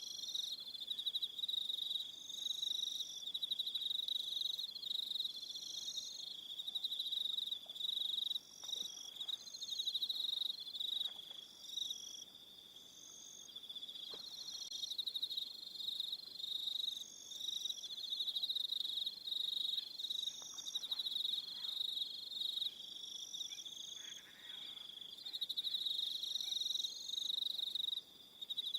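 Evening chorus of crickets: a continuous high-pitched trilling that swells and dips, with shorter chirps repeating in an even pattern above it.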